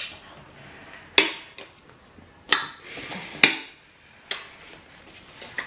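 Cutlery clinking against a plate during a meal: about six sharp strikes, roughly a second apart, each ringing briefly.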